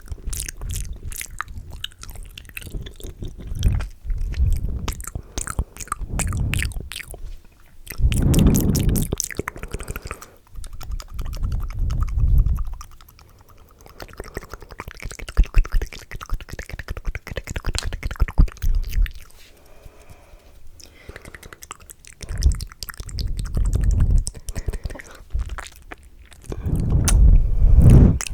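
Close-miked ASMR mouth sounds: rapid wet clicks, smacks and sucking sounds, fast and aggressive, with a few louder, deeper swells now and then.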